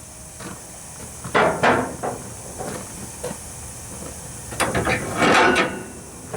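Metal knocks and clanks from hand tools on a riding mower's deck and blade, a few single hits and then a quicker clattering run near the end.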